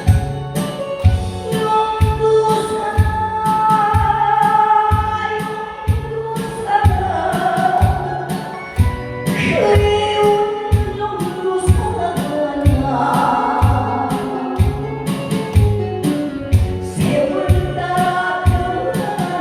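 A singer performing a song with loud musical accompaniment and a steady beat of about two strokes a second.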